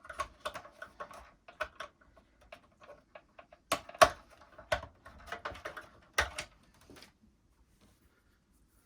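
Plastic parts of a Miele S234i vacuum cleaner clicking and knocking as the on/off switch is unclipped and handled: a run of small clicks with a few louder knocks, dying away near the end.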